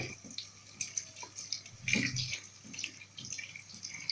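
Water running and splashing in a kitchen sink as tomatoes are rinsed and rubbed by hand, with irregular surges and a louder splash about halfway through.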